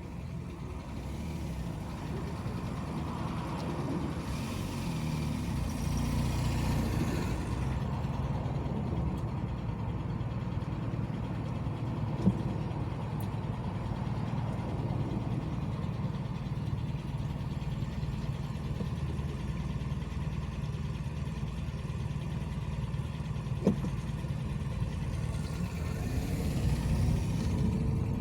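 A car driving on city streets: steady low road and engine rumble, with a swell of noise about four to eight seconds in and two short sharp clicks, one near the middle and one near the end.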